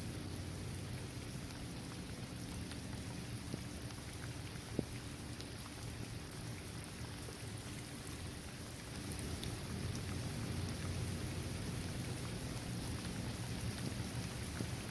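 Steady rain falling on a basketball court, trees and grass: a dense, even hiss with scattered single drop ticks, one sharper tick about five seconds in. The rain grows a little louder about nine seconds in.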